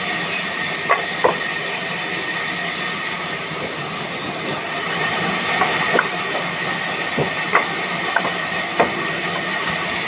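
Woodworking machinery running steadily with a hiss and faint fixed whines, with a dozen or so light knocks and clicks scattered through.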